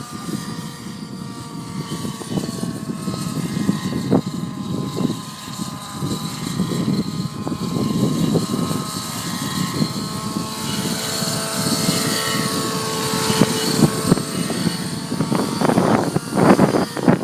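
Nitro-powered T-REX 700 radio-controlled helicopter in flight, its glow engine and rotors droning steadily, the pitch drifting up and down as it manoeuvres. Strong wind buffets the microphone, with heavy gusts near the end.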